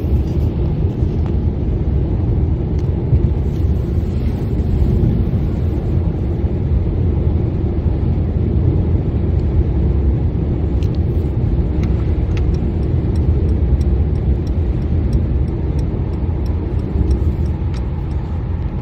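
Steady road and engine noise of a moving car heard from inside the cabin: a constant low rumble, with a few faint ticks around the middle.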